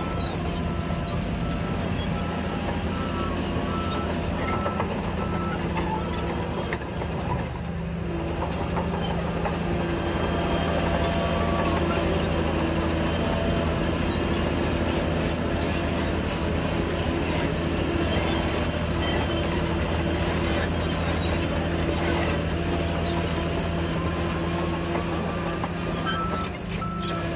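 Shantui DH17C3 crawler bulldozer at work: its diesel engine runs steadily under a metallic clatter of the steel tracks, growing louder about eight seconds in.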